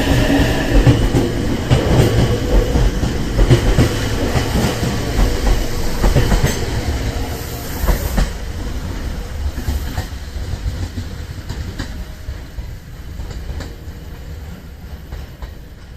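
Electric commuter train running on the rails, wheels clicking over rail joints, its rumble growing steadily fainter.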